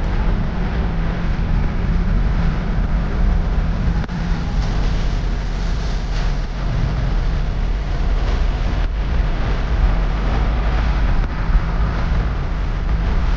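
Steady low rumble of a moving vehicle, with no clear rhythm or change.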